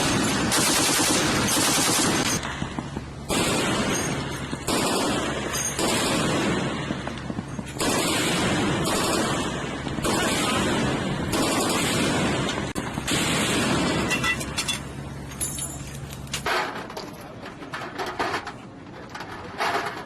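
Aircraft carrier's anchor chain running out, its heavy links rattling loudly in surges of one to three seconds with short lulls, over a steady low machinery hum that stops about three quarters of the way through.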